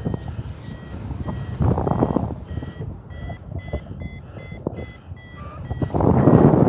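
A flight variometer beeping, a rapid string of short electronic beeps, about two to three a second. Gusts of wind rush over the microphone, strongest near the end.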